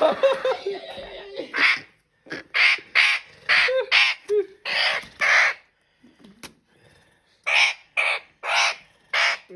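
Ringneck parrot screeching harshly over and over, about a dozen short, loud squawks with a brief pause in the middle: the alarm calls of a bird being held for wing-feather clipping.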